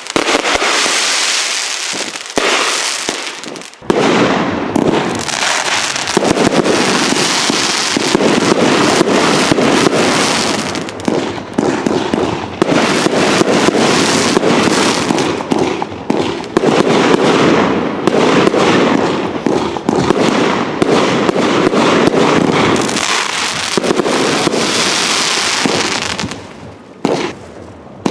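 A dense, continuous barrage of fireworks: rapid crackling and many sharp bangs over a steady hiss, thinning out near the end.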